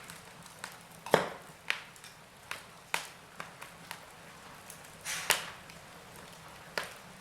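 Wood fire crackling: irregular sharp pops and snaps of burning logs over a faint hiss, the loudest about a second in and again around five seconds in.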